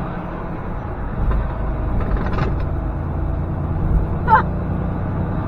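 Semi-truck engine running with a steady low hum and rumble heard from inside the cab, the rumble growing louder for a couple of seconds partway through.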